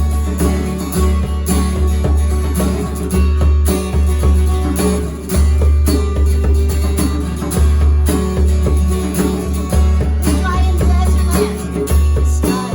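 A worship band playing an instrumental introduction: strummed acoustic guitar over a steady bass beat.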